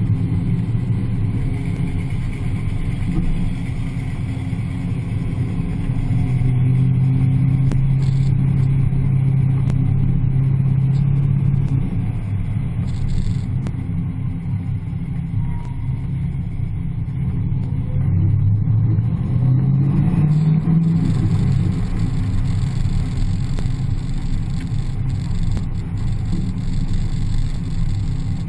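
Muscle car engine running at track speed, heard from on top of the hood: a steady low drone that holds one note for several seconds in the first half, then rises as the car accelerates about two-thirds of the way in, before settling again.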